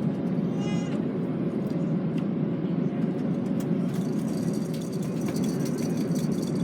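Steady low cabin drone of an Airbus A330-300 in flight, with a faint steady hum above it. A brief high wavering call sounds about a second in, and light clicking and rustling joins from about halfway through.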